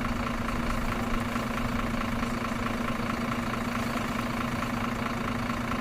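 A steady, unchanging mechanical drone with one constant hum, like an idling engine.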